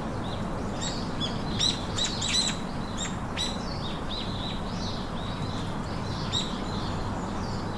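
Small birds chirping: a run of short, sharp, high calls, thickest about one to three and a half seconds in and sparser after that, over a steady background hiss.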